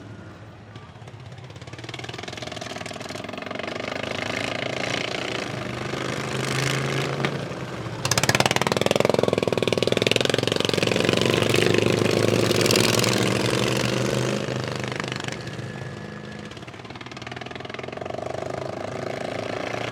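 Engines of racing lawn mowers running around a dirt track, rising and falling as they pass. The sound gets abruptly louder about eight seconds in, stays loud for several seconds, then fades and builds again.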